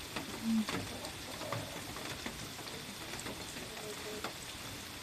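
A hen pecking and drinking at a dish, her beak making faint scattered clicks and taps, with a brief low hum about half a second in.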